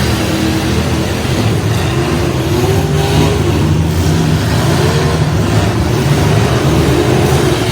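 Several demolition derby trucks' engines running and revving together, their pitches rising and falling against each other.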